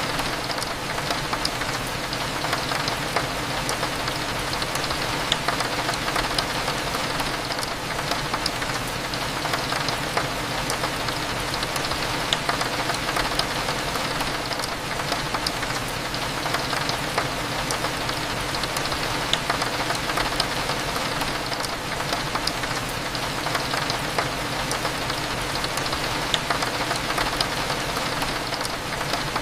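Steady rain with many small drops ticking against a window pane, over a low background hum.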